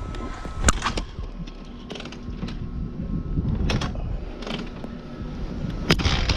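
Hawk 250 dirt bike being kick-started on half choke without catching: a few sharp mechanical clunks, the loudest about a second in and again near the end, over a low, uneven rumble.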